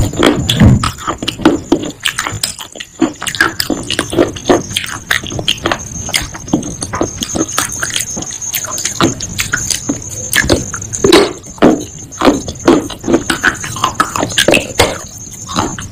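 Close-up crunching and chewing of baked clay pot pieces in the mouth: a steady run of sharp crunches with wet mouth sounds between them.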